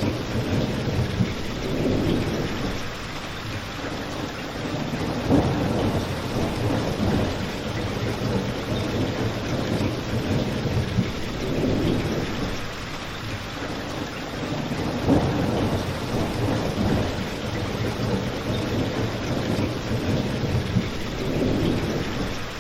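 Steady rain, with low rumbling swells coming and going every few seconds, mixed with a crackling fireplace that gives a few sharp pops.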